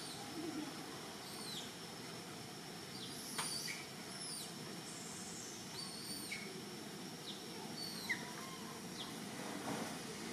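Birds chirping outdoors: short, high, falling calls repeated every second or so over a faint steady high-pitched tone, with a few light clicks.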